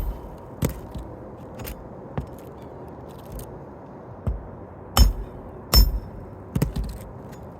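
Asphalt roof shingles being worked loose by hand and tool: about seven irregular sharp knocks and cracks, the loudest near five and six seconds in. Any handling of these shingles damages them.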